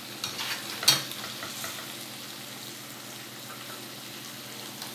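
Chicken pieces and tomato paste sizzling steadily in a pot, with one sharp knock about a second in.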